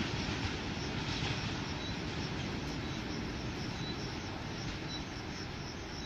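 A train running at the station: a steady, even rumbling noise heaviest in the low end, without clear beats or changes.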